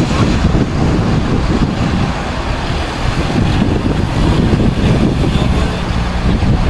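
Wind buffeting the microphone, a heavy uneven rumble, over the steady noise of a jet airliner's engines.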